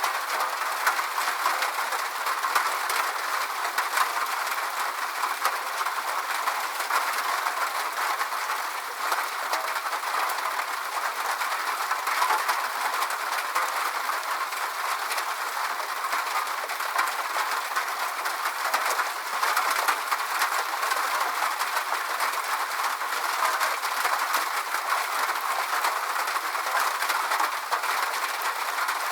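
Steady rainfall: an even hiss with many small drop ticks.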